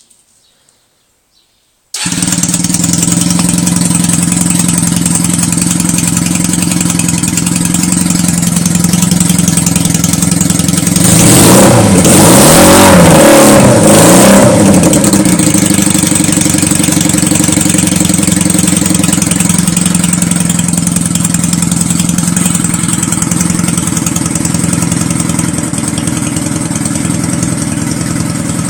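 WMI Bobtail 125 motorcycle engine running through an open exhaust with no silencer. It comes in suddenly about two seconds in and idles steadily, is revved up and down several times between about eleven and fifteen seconds in, then settles back to idle.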